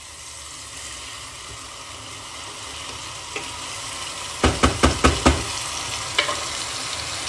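Masala-stuffed tinda (apple gourds) sizzling steadily in a nonstick pan. Just past halfway a spatula knocks against the pan about five times in quick succession while stirring, and once more a second later.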